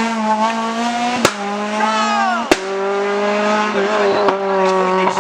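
Rally car engine running hard at high revs, its note falling and rising with gear changes, with two sharp bangs about a second apart.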